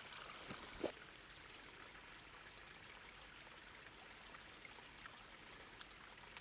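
Faint, steady rushing of running water, with a single short click a little under a second in.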